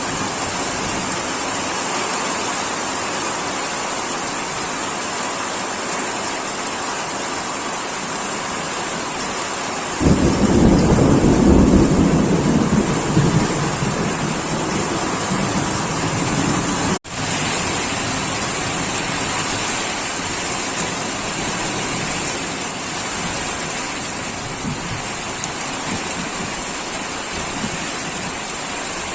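Steady heavy rain, with a clap of thunder breaking in suddenly about a third of the way through and rumbling for several seconds as it fades. The sound cuts out for a moment just after the thunder.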